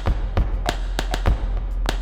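Playback of a musique concrète rhythm built from sampled household sounds: sharp percussive hits repeating about three times a second over a low steady drone.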